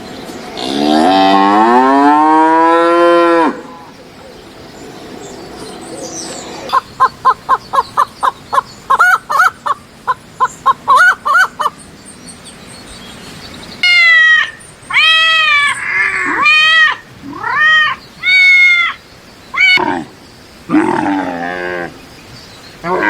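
A cow mooing once, long and drawn out, near the start; later a quick run of short, evenly spaced calls and then a series of higher, arching calls from other animals.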